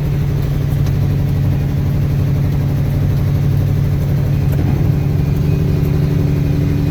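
Heavy truck's diesel engine running steadily at low speed, heard from inside the cab.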